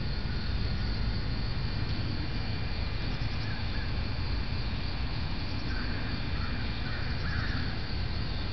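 Outdoor ambience: a steady low rumble with a few faint bird calls, once about three seconds in and again in a short run about six to seven and a half seconds in.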